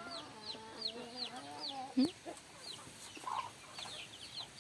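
Chickens calling: a steady run of short, high, falling peeps, about two or three a second, over a long wavering low cluck, with one loud cluck about two seconds in.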